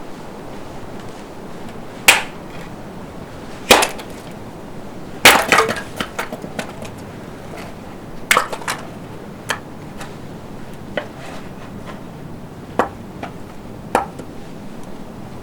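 Sharp wooden cracks and snaps at irregular intervals over a steady hiss, about a dozen in all, with a quick cluster of several about five seconds in.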